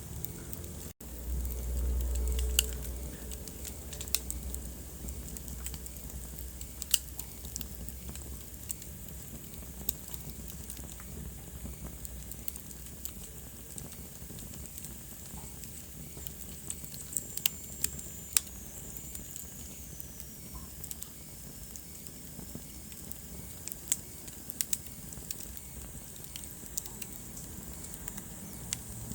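Wood fire crackling in a fireplace: scattered sharp pops and snaps over a soft hiss. A low rumble from about one to four seconds in is the loudest part, and a faint high whistle slowly falls in pitch about seventeen seconds in.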